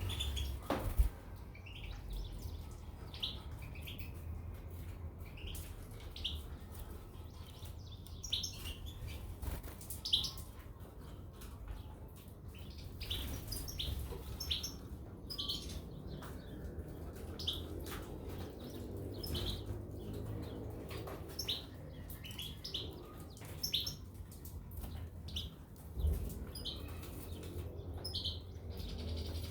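Small finches, goldfinches and canaries, giving short, scattered chirping calls over a low steady hum.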